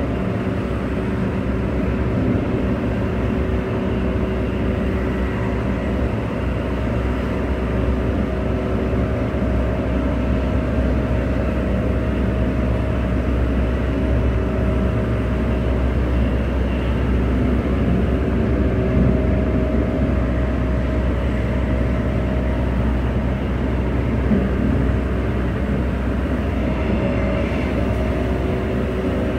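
Cabin sound of a Bombardier B-series electric multiple unit running between stations: a steady rumble with a few constant hums over it.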